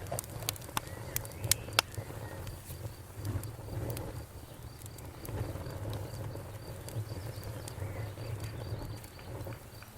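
Wood bonfire crackling, with sharp pops bunched in the first two seconds, over the low steady rumble of the burning fire. Crickets chirp in a steady high trill throughout.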